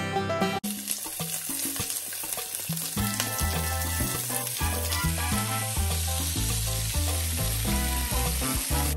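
Razor clams sizzling in a hot grill pan, with fine crackling. Background music runs under it, and a stepping bass line comes in about three seconds in.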